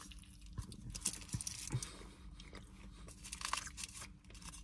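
A person chewing a mouthful of burrito close to the microphone: irregular wet clicks and crackles of eating, over a faint steady low hum.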